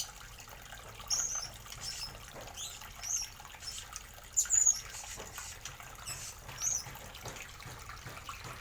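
Small cage birds chirping: short high calls, several bending down in pitch, come about once a second over a faint steady hiss.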